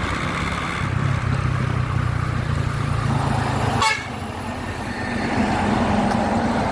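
Riding in traffic: steady low wind rumble and road noise, broken about four seconds in by one very short horn toot, then quieter steady traffic noise.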